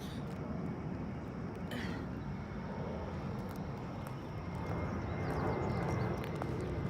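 Low rumble of a vehicle on the road, growing louder over the last few seconds as it draws nearer.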